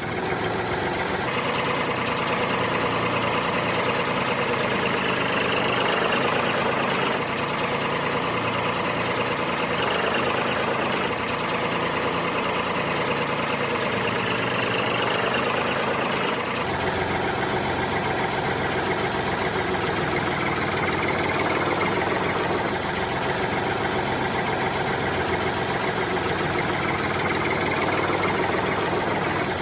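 An engine running steadily at idle, its sound changing slightly about halfway through.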